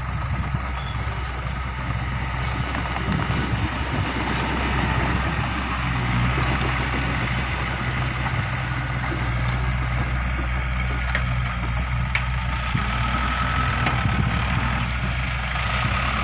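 Dump truck's diesel engine running steadily at a low, even idle, a little louder from about six seconds in.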